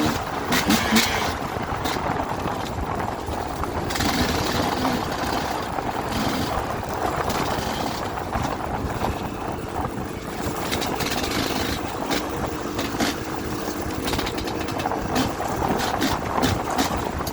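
Dirt bike engine running steadily under way, with rough rumbling noise and scattered short knocks.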